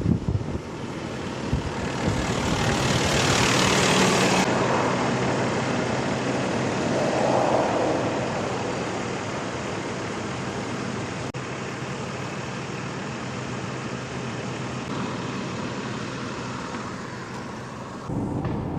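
Road traffic: steady tyre and engine noise of vehicles on the road, with one vehicle passing close and loud about three to four seconds in, and a smaller swell a few seconds later.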